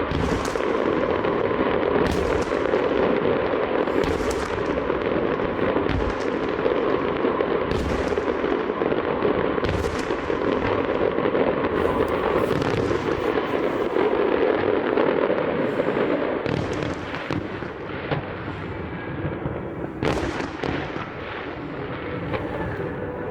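Fireworks display: a dense, continuous crackling with sharp bangs from shells bursting every second or two. The barrage thins out somewhat in the last few seconds.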